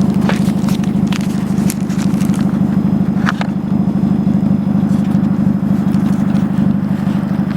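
Ford Fiesta exhaust at a steady idle: an even, low pulsing note with no revving, and a few brief clicks over it.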